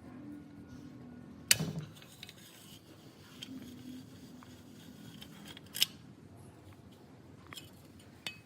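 Metal parts and tools being handled: a few sharp metallic knocks and clinks, the loudest about a second and a half in, with a faint low hum in between.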